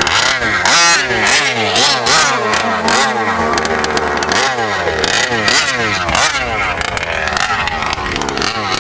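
Small gas two-stroke engine of a 1/5-scale RC truck being revved in repeated throttle blips, its pitch rising and falling over and over, roughly once or twice a second.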